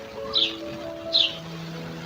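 A bird calling twice with short, high calls that fall in pitch, part of a series coming about every 0.8 seconds, over soft background music with held notes.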